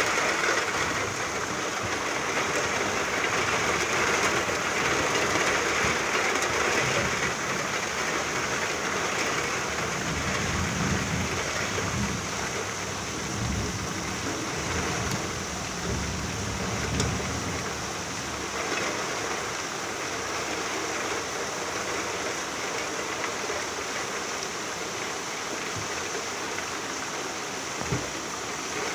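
Rain falling steadily, an even hiss, with a low rumble in the middle stretch.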